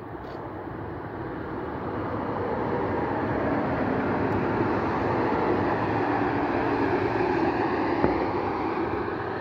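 Alstom Régiolis regional passenger train passing on the line, its running noise swelling over several seconds to a steady rushing with a low hum, then starting to fade near the end. A single sharp click about eight seconds in.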